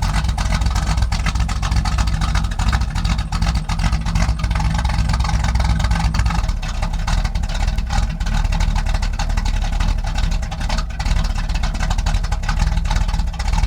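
The 1986 Camaro's small-block Chevy V8, with a Comp Cams Mutha Thumpr cam, idling steadily through its custom exhaust.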